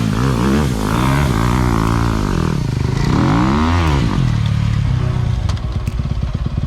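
Dirt bike engine revving up and down a couple of times, then running at a lower, steadier pitch.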